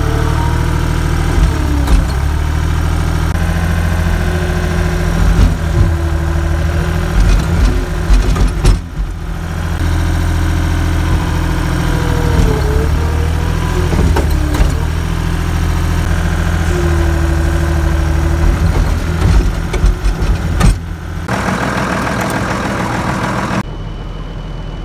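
Skid steer engine running steadily, heard loud from inside the cab, as it loads manure into a spreader. The pitch briefly dips and rises now and then, with a few knocks. Near the end the engine drops to a quieter run.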